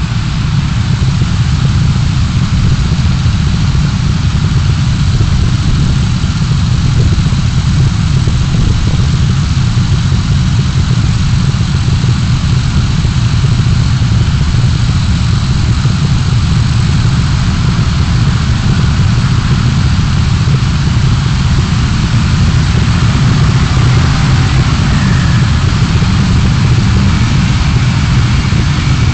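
Car engine and road noise, a steady low rumble with no change throughout.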